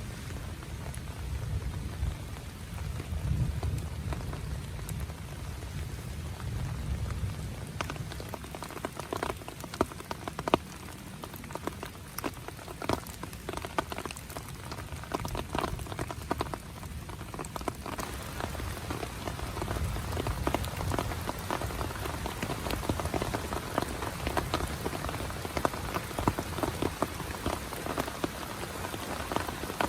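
Heavy rain falling, with many separate drops striking close by; the drop hits grow denser about a quarter of the way in. A low rumble sits under the rain in the first several seconds.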